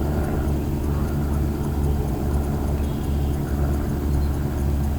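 An engine running steadily, giving an even low hum.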